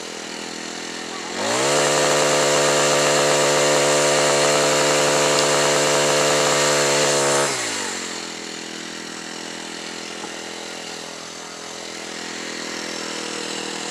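Small 33cc four-stroke pole saw engine idling, then revving up about a second and a half in and holding high for roughly six seconds before dropping back to idle.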